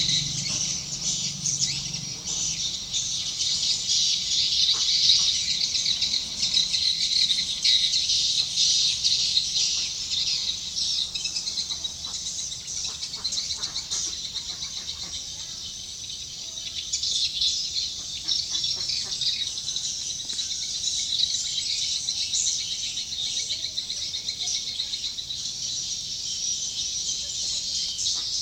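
Swiftlets twittering: a dense, continuous chatter of many high chirps with no pauses.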